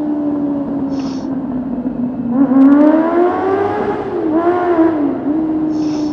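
Honda CB400's inline-four engine through an IXIL aftermarket exhaust, ridden in a tunnel. It runs at a steady, slowly falling note, then about two and a half seconds in it revs up sharply with a quick blip before settling back to a steady note.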